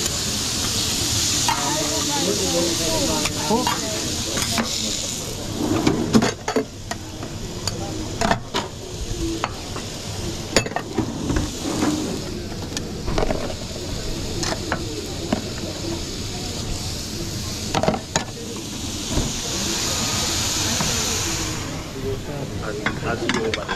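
Food frying in a hot pan, sizzling for the first few seconds and again near the end, with metal utensils clattering and scraping against the pan as it is stirred in between.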